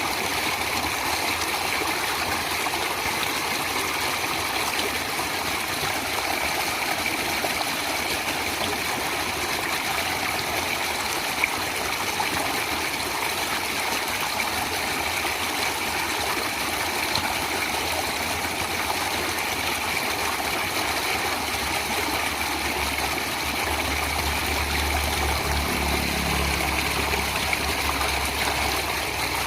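Steady rushing of flowing stream water. From about 23 seconds in, a low rumble joins it underneath.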